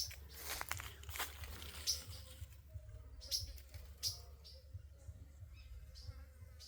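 Footsteps crunching through dry leaf litter for about the first two seconds, then a few short, high bird chirps spaced about a second apart.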